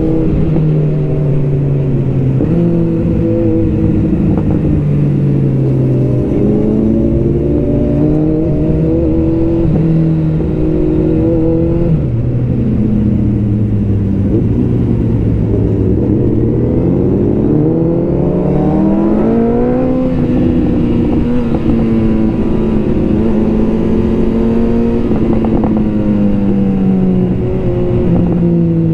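Several superbike engines running together as a group of bikes rides past, their pitches holding steady and then rising and falling as riders rev up and ease off.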